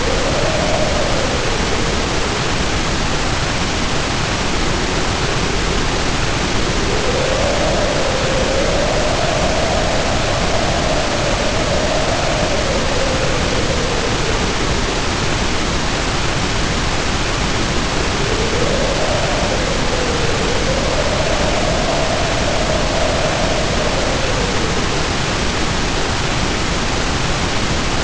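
Heavy rain pouring as a steady, even hiss, with wind howling over it in slow gusts: a hollow tone that rises and falls, swelling for several seconds at a time, about every ten seconds.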